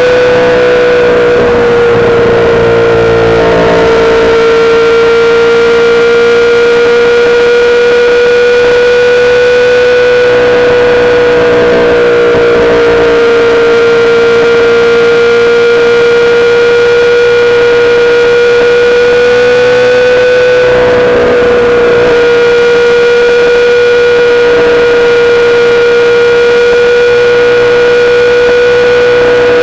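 A 2008 Yamaha R6 with a full SC-Project exhaust, its inline-four running through the streets. The engine note shifts briefly about two seconds in and again about two-thirds of the way through. Over it, and louder than the engine, a single high tone holds steady the whole time.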